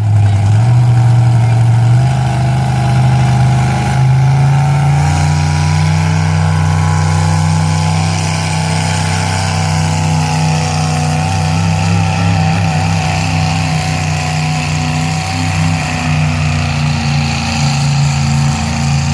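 Pro street pickup truck's engine running loud and steady at a truck pull, its pitch stepping up slightly about two seconds in and again around five seconds.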